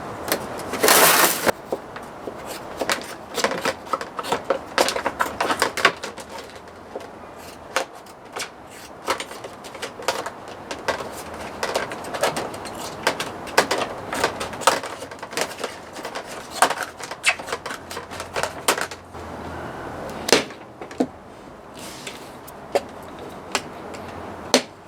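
Irregular clinks and knocks of tools and metal parts being handled during mechanical work, with a louder rattling burst about a second in and the clicks thinning out near the end.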